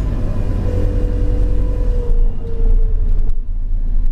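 Enviro400 BAE hybrid double-decker bus running, with a heavy low rumble. A steady whining tone starts under a second in, sinks slightly in pitch and fades out about three seconds in.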